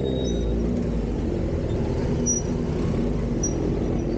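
Motorcycle engine running steadily while riding, a continuous low drone with no change in pitch.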